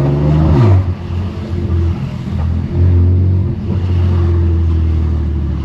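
2018 BMW M3 Competition's S55 twin-turbo straight-six with a straight-pipe exhaust, revs rising briefly and then dropping off sharply as the throttle is lifted, then settling into a steady low drone at low revs.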